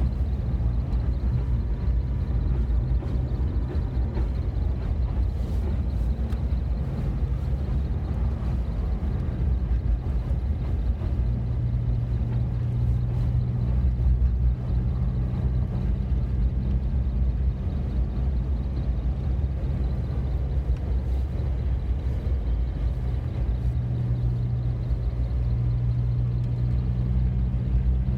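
A Subaru car driving along with a steady low engine and road drone. One engine tone swells a little for a few seconds in the middle and again near the end.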